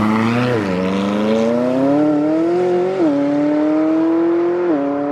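A supercar's engine accelerating hard through the gears as it drives away: the pitch climbs steadily, then drops sharply at each upshift, three times.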